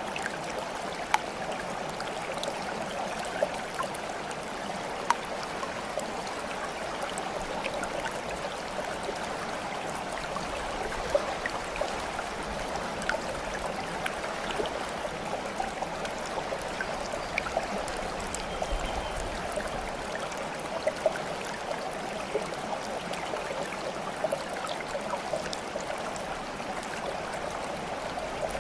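Steady flowing water of a babbling stream, with a few small splashes scattered through it.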